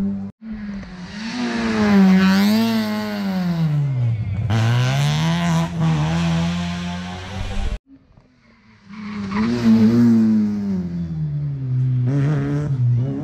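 Rally car engine at high revs, its pitch rising and falling as the car changes gear, brakes and accelerates. The sound cuts off about eight seconds in, then an engine builds and rises and falls again.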